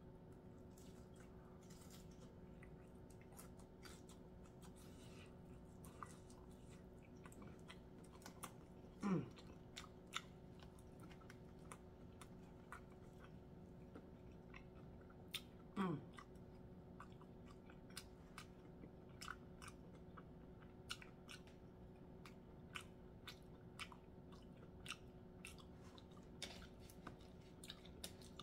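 A person chewing breaded fried fish with small wet mouth clicks, faint over a steady room hum. Twice a short hum of the voice falls in pitch, the eater's sound of enjoyment.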